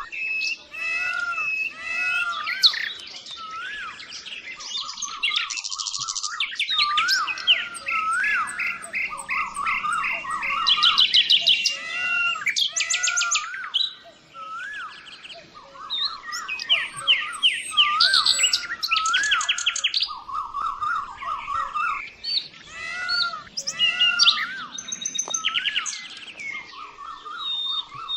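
Several birds chirping and calling over one another: fast trills, short rising-and-falling whistles and repeated chirps, with the same phrases coming back every few seconds.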